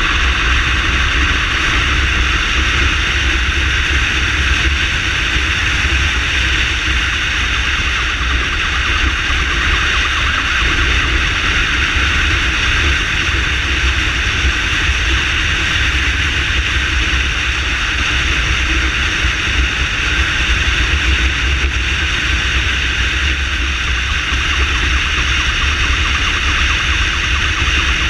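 Motorcycle ambulance riding at speed: a steady, unchanging rush of engine and road noise with a heavy low rumble.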